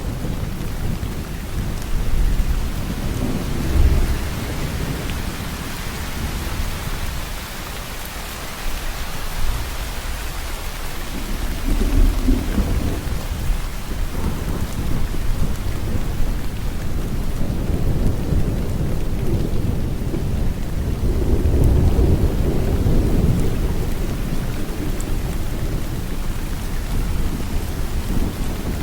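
Steady heavy rain falling, with low rolls of thunder rumbling up several times, the longest about two-thirds of the way through.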